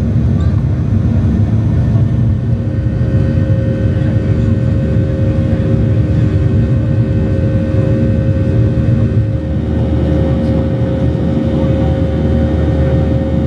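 Boeing 737-800 in flight, heard from the cabin: the steady drone of the engines and airflow, a low rumble with a few steady humming tones.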